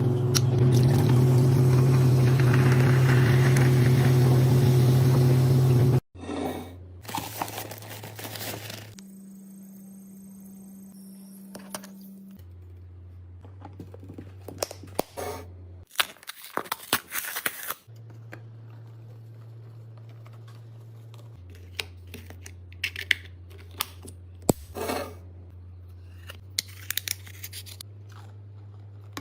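Loud steady low hum for about six seconds, cut off suddenly. Then come quieter stretches of scattered clicks, taps and short rustles, typical of packaging and containers being handled while restocking.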